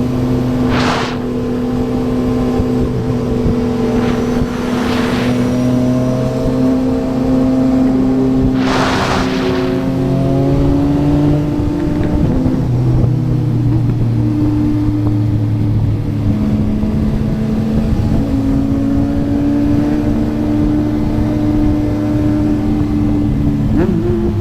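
Yamaha MT-09's 890 cc three-cylinder engine through a Yoshimura R11 exhaust, running steadily under way. Its note drifts slowly in pitch, changes pitch about halfway through and again near the end, and a few short whooshes pass over it.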